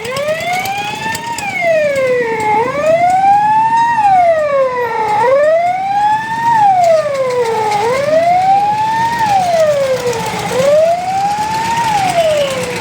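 A siren wailing, sweeping slowly up and down in pitch about once every two and a half seconds, over a low background rumble.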